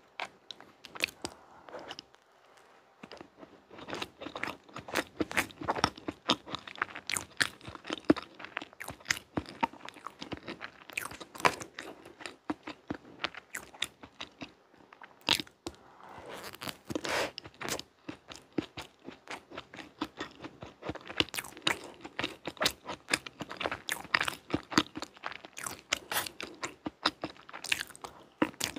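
Close-miked eating of a chocolate ganache layer cake: steady chewing and wet mouth clicks, with a fork cutting into the cake. There are short quieter pauses about two seconds in and just past the middle.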